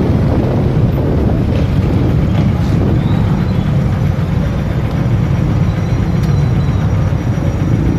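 Steady road noise from a motorcycle under way: the engine running with wind on the microphone.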